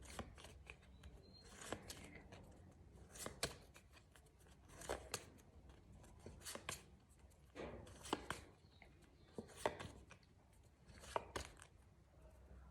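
Paper flashcards being handled and flipped over one after another, a short faint rustle and click about every second and a half.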